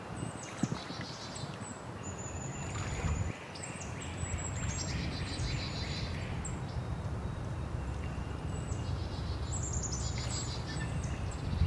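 Spring birdsong in a swamp forest: birds sing short phrases of high whistles and trills, repeated every few seconds, over a steady low rumble.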